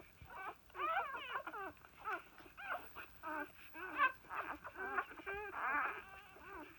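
A litter of one-day-old newborn puppies crying and squeaking: many short, wavering high-pitched cries, several pups at once, overlapping most around a second in and near the end.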